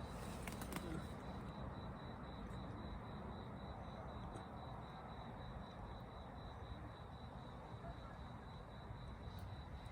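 Faint, steady high-pitched insect trill, pulsing evenly throughout, over a low hiss, with a few scattered faint clicks.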